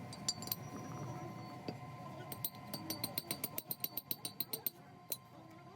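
Rapid run of light, sharp metallic clicks, about five a second for a couple of seconds, from a metal tool working on tractor parts, over a steady low hum.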